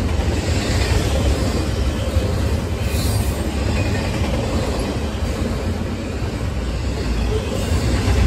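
Double-stack intermodal container freight train rolling past: a steady rumble of the cars and their wheels on the rails, heaviest in the low end.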